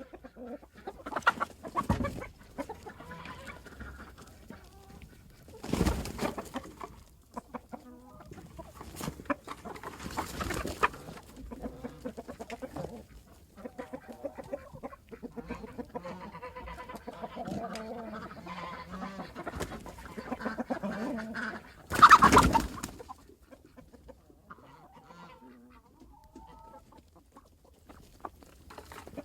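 A single barnyard chicken clucking close up, broken by several sudden loud squawks and wing flaps. The loudest burst comes about two-thirds of the way through, and the clucking quietens after it.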